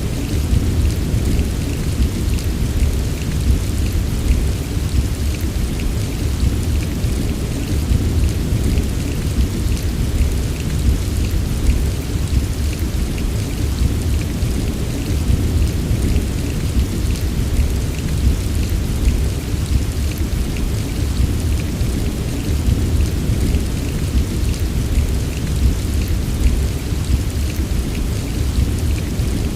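Steady heavy rain, drops pattering on a surface, over a continuous deep low rumble of thunder.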